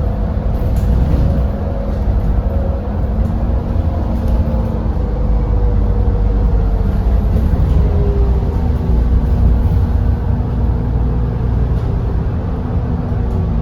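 Doosan GX12P natural-gas engine of an Edison Motors Smart 110G city bus running: a steady low rumble with faint engine tones that drift slightly in pitch.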